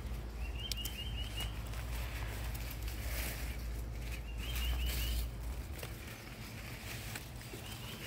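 A bird sings a short phrase of four or five quick, high notes three times, a few seconds apart, over light rustling and crackling of sweet potato vines and leaves being handled. A low rumble underneath stops about five seconds in.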